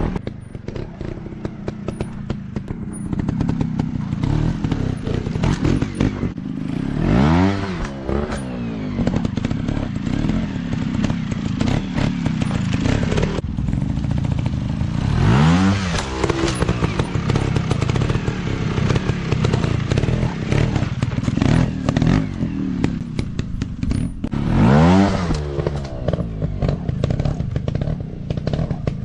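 Off-road dirt bike engines running, with three sharp revs, each rising quickly in pitch, about eight seconds apart.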